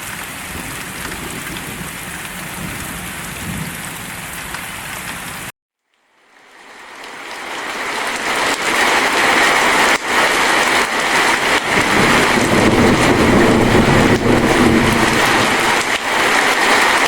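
Steady rain ambience that cuts out abruptly about five and a half seconds in, then fades back in as a louder, heavier downpour.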